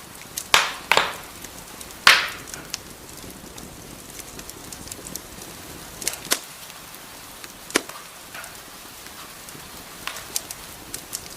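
Wood fire crackling in a fireplace: sharp pops of burning logs over a steady hiss, the loudest a cluster in the first two seconds, then scattered pops.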